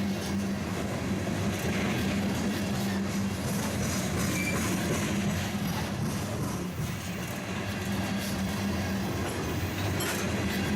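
BNSF freight train rolling past, wheels running over the rails in a steady noise with a low hum underneath.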